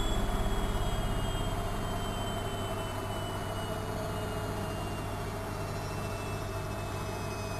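Studio WM26AAA washing machine running, its motor whine falling slowly and steadily in pitch over a low steady hum, as the drum slows down.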